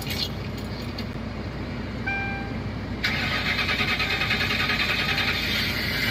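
Ford Crown Victoria engine being started after sitting two years: a short chime about two seconds in, then about three seconds in a sudden loud, steady, fast-pulsing rush of starter and engine noise.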